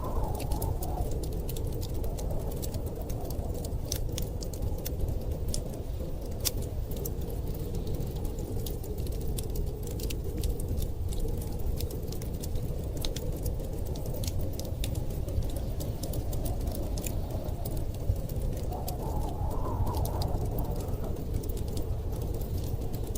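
Wood fire crackling with scattered sharp pops and snaps over a steady low rumble of storm wind, which swells in a gust near the end.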